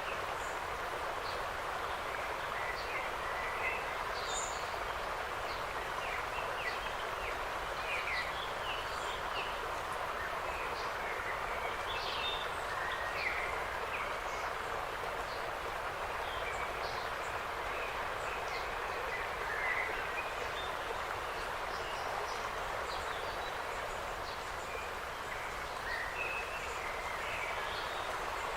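Many short bird chirps and calls, scattered throughout, over a steady even hiss of outdoor ambience.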